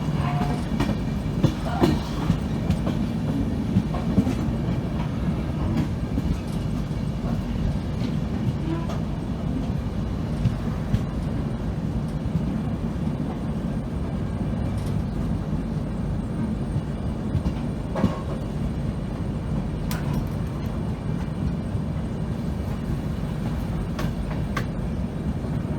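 Moving train's steady low rumble of wheels on the track, with a few sharp clacks, most of them in the first few seconds and one around the middle.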